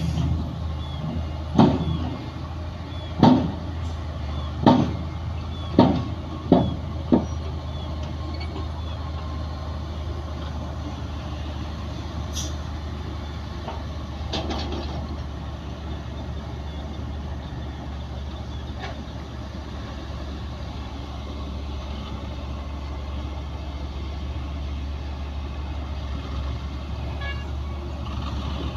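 Diesel engine of heavy earthmoving machinery running steadily, with a string of six loud clanks in the first few seconds, then just the steady engine.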